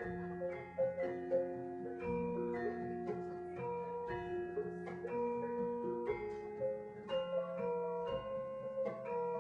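A band playing an instrumental tune live: a melody of clear, ringing pitched notes moving over a steady bass line.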